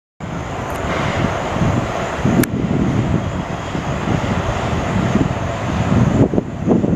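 A JR 211 series electric multiple unit pulling out, with a steady rumble of the train running over the rails. There is a single sharp click about two and a half seconds in.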